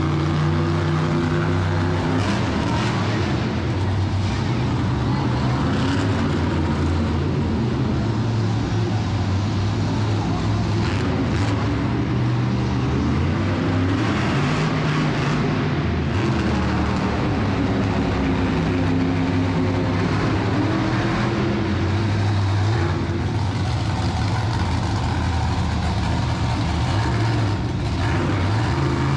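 Monster truck engine running continuously and revving up and down, its pitch rising and falling several times, notably in the middle and again in the last third.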